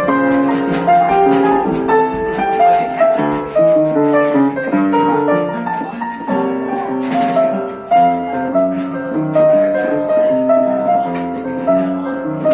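Live jazz played by a small band with piano in the lead: chords and melody notes moving steadily over an even, ticking beat.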